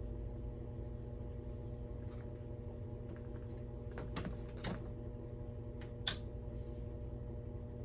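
A few scattered computer keyboard key clicks, the loudest about six seconds in, over a steady low hum of a running washing machine.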